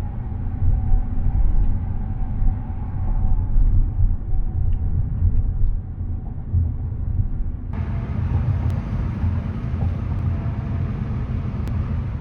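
Steady low rumble of a moving vehicle, with a brighter hiss joining about eight seconds in.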